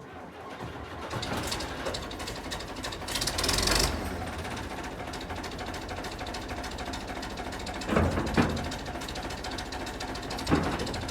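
Large piston air compressor running with a fast, even mechanical chatter while inflating a tractor tyre to its final pressure. There is a burst of air hiss about three and a half seconds in and a few knocks near the end.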